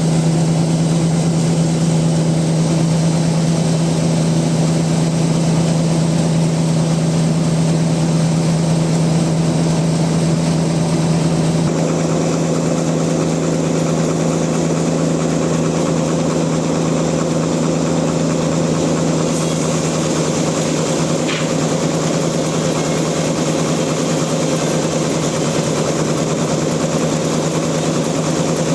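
Bandsaw mill running steadily with a strong, even low hum over a noisy whir; the sound shifts slightly about twelve seconds in.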